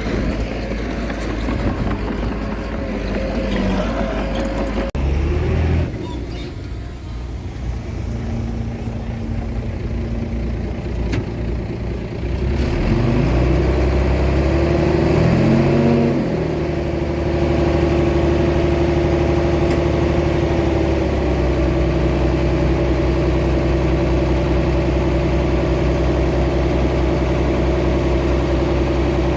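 Small bulldozer's diesel engine running, revving up between about 13 and 16 seconds in, then holding steady at the higher speed.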